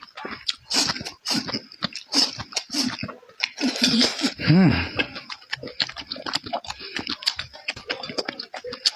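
Close-miked chewing and crunching of food in the mouth: many quick, irregular crunches and chews.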